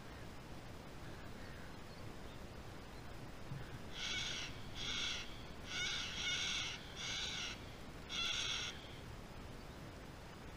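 A bird calling six times in a row, short calls with gaps of under a second, starting about four seconds in.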